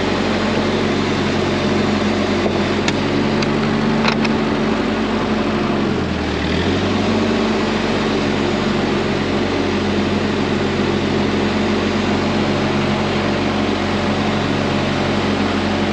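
Small tractor engine running steadily as the tractor is driven, dipping in pitch briefly about six seconds in and picking back up.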